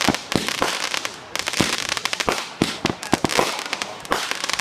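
Fireworks going off: many sharp bangs and pops in quick, irregular succession over a continuous crackle.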